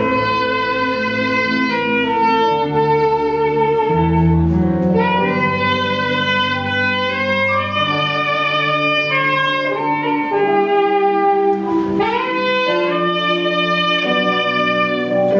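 A saxophone plays a slow melody of long held notes over an accompaniment of sustained bass and chords, with a quick upward scoop into a note about twelve seconds in.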